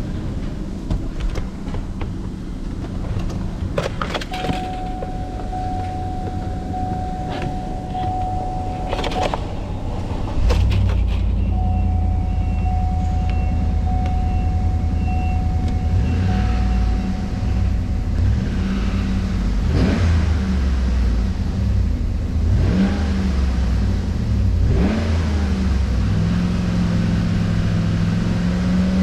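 A 2014 GMC Yukon's 6.2-litre V8 is started about ten seconds in and settles into a steady idle, after a steady electronic chime in the cab. From around eighteen seconds it is revved several times, its pitch rising and falling with each blip.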